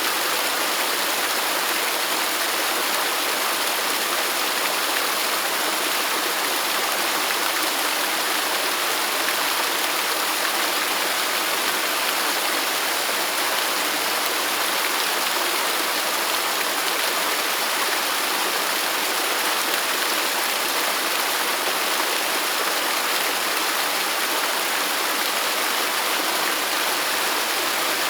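Waterfall pouring: a steady, even rush of falling water with no change throughout.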